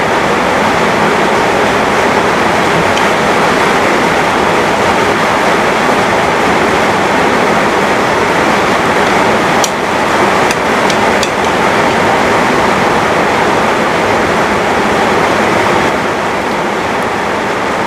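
Heavy rain falling, a steady dense hiss, with a few sharp clicks about ten seconds in.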